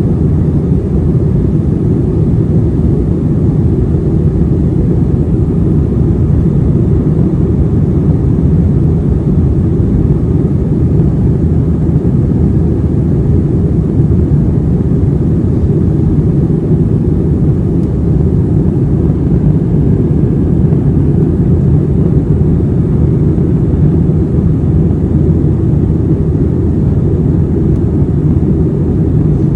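Steady low rumble of an Airbus A321's engines and airflow heard inside the passenger cabin, holding even throughout with no rise or fall.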